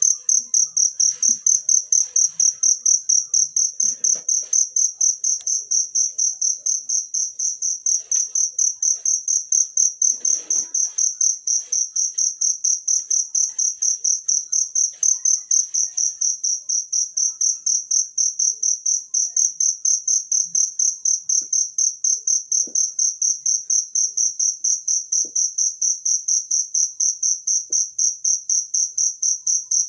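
A cricket chirping loudly and steadily: a high, evenly pulsed trill repeating at a fast, regular rate without a break.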